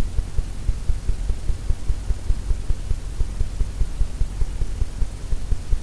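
Oil-paint brush working paint onto a canvas on the easel, picked up as a rapid, irregular run of soft low thumps, several a second.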